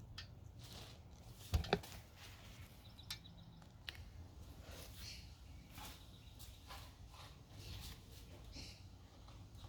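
Low, steady background noise with two quick, sharp knocks close together about a second and a half in, then a few lighter clicks.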